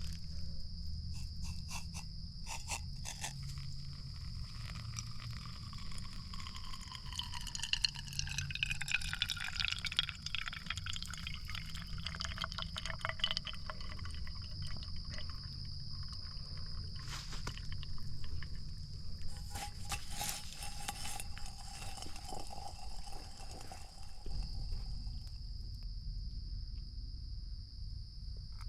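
Night chorus of insects holding a steady high drone, with frogs calling. A pitched sound falls slowly through the middle, over a low rumble.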